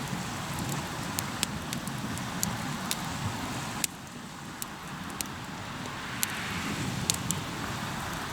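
Wood fire crackling, with a dozen or so sharp, irregular pops over a steady rushing noise.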